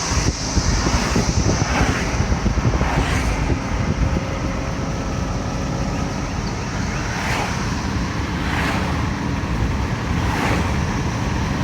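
Cicadas calling: a steady high-pitched buzz with calls swelling and fading every second or so. A loud low rumble lies under it throughout.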